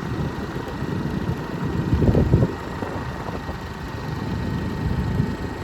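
Motorcycle running along at riding speed, heard as an uneven low rumble that swells about two seconds in.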